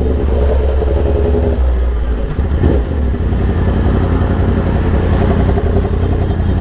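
Yamaha R1's crossplane inline-four engine with an SC Project exhaust running steadily under way, its note shifting about two seconds in.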